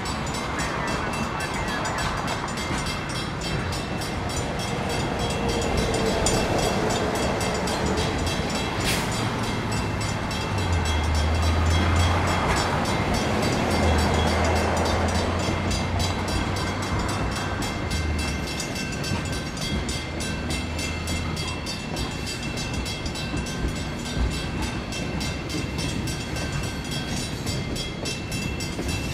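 Freight train rolling through a grade crossing, with the crossing's mechanical bell striking rapidly and steadily throughout. A low locomotive engine drone rises and holds through the middle, then fades.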